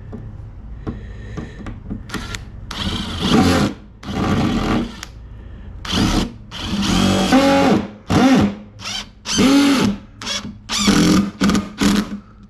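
Power drill run in about a dozen short trigger bursts, its motor speeding up and winding down each time.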